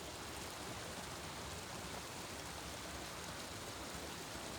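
Steady, even hiss like running water, with no distinct events.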